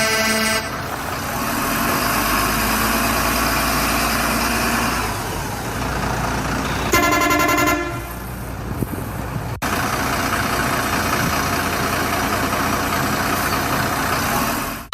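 Truck horn honking briefly at the very start and again, for under a second, about seven seconds in, over a steady truck engine sound with a low rumble.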